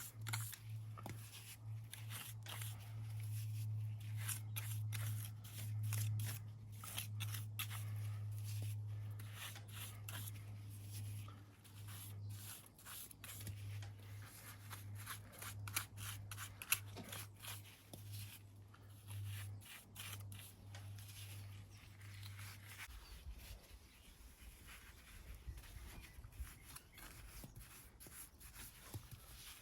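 Hand tools scraping and clicking on stone and mortar, in many short, irregular strokes typical of pointing a stone wall, over a steady low hum that stops about 23 seconds in.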